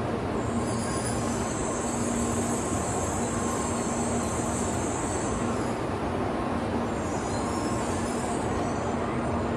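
700 series Shinkansen train pulling slowly into a station platform: a steady running rumble with a faint held tone, and a high hiss that fades out about six seconds in and comes back more weakly near the end.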